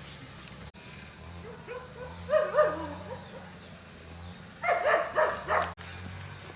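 An animal calling in two short bouts of rapid calls, about two seconds in and again near the end, over a low steady hum.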